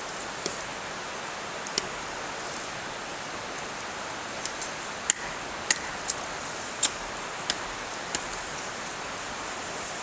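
Wood campfire crackling: a steady hiss with about ten sharp pops at irregular intervals.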